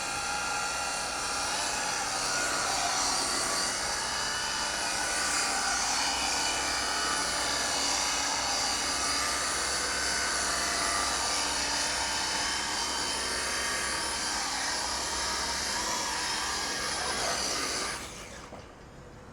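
Radio-controlled burnout truck doing a burnout: a high-pitched motor whine over a dense hiss, holding steady, then stopping suddenly near the end.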